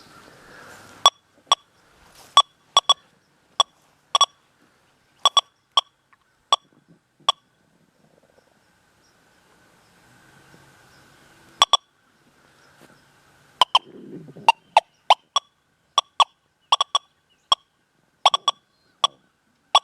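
Metal detector in a Goldfield 'bird dog' setup giving short, sharp beeps at one steady pitch as the coil sweeps back and forth over iron nails and a quarter, about two dozen in two bursts with a pause of a few seconds between.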